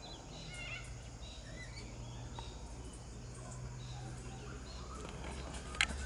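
Faint bird chirps and short twittering calls, clustered in the first second and scattered after, over a steady low hum. A sharp click comes just before the end.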